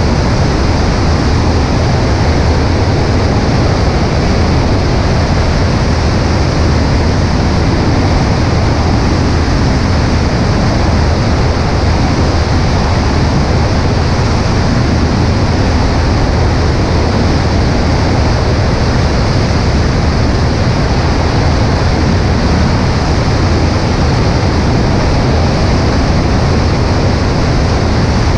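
Cessna 140A light airplane in cruise flight: steady engine and propeller drone under loud rushing wind noise over a wing-mounted microphone.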